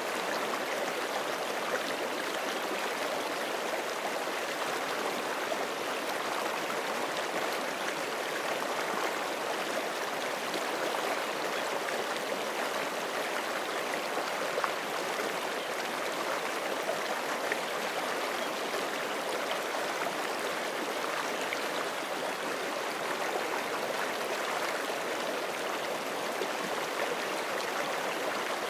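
Forest creek: water running and splashing over rocks in a steady, unbroken rush.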